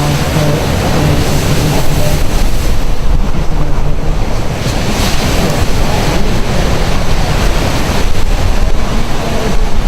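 Heavy winter surf breaking and rumbling continuously, with wind buffeting the microphone.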